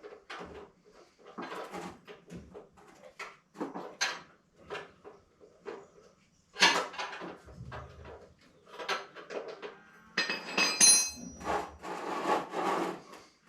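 Hand tools and metal parts being handled: a string of irregular knocks, clatters and scrapes, with a ringing metallic clink about ten seconds in.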